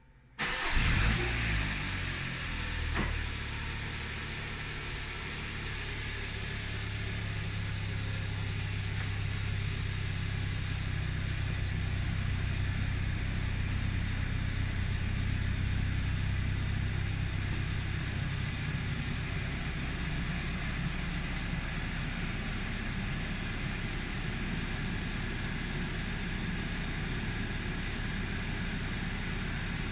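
2015 Kia Optima's four-cylinder engine remote-started from a phone app: it fires about half a second in, runs loudest at first, then settles within a few seconds into a steady idle.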